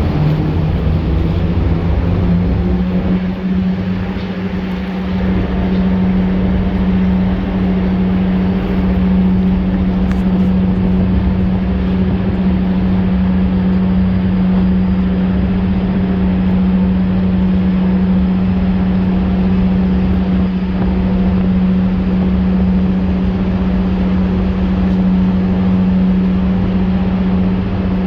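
Boat engine running at a steady speed: a loud, constant hum over a low rumble.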